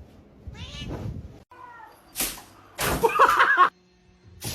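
A cat meowing, with pitched cries, the loudest near the end, which cut off abruptly.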